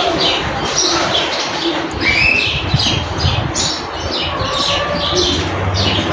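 A flock of birds calling together: many short, overlapping chirps that sweep downward in pitch, repeated several times a second. A low rumble runs underneath from about two seconds in.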